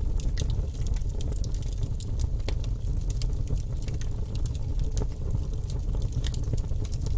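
Wood fire burning in a fireplace: a steady low rumble of flames with frequent irregular crackles and snaps.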